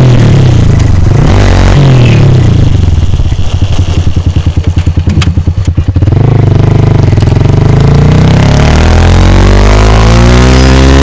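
Lifan KPR motorcycle's single-cylinder engine running through an aftermarket Akrapovic-style exhaust, recorded close to the silencer. It is revved, drops to a lumpy idle with distinct exhaust pulses, then is revved again about six seconds in, its pitch rising near the end.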